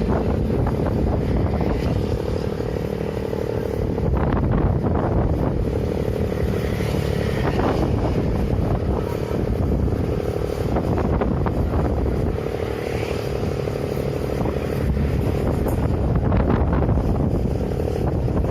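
Strong wind buffeting the microphone, with a steady low hum of an engine underneath.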